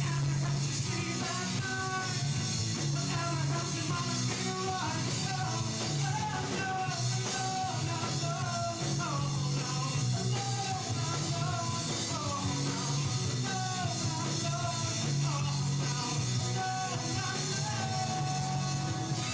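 Rock song with singing over a full band: electric guitar, bass and drums, loud and steady throughout.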